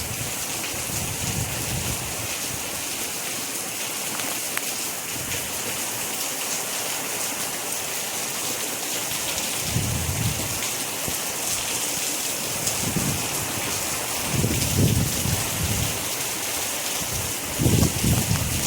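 Rain falling steadily as an even hiss, with several brief low rumbles from about ten seconds in.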